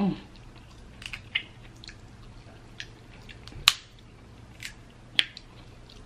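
Close-up eating sounds from a person chewing seafood by hand, with wet mouth smacks and scattered sharp clicks; the two loudest come a little past the middle, about a second and a half apart. A short sound of the voice is heard at the very start.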